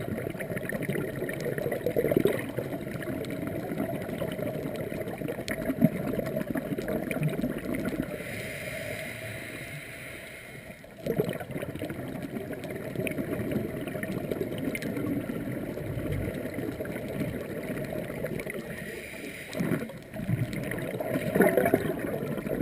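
Scuba diver's breathing heard underwater: long stretches of bubbling, gurgling exhalation, with a quieter hissing stretch about eight seconds in.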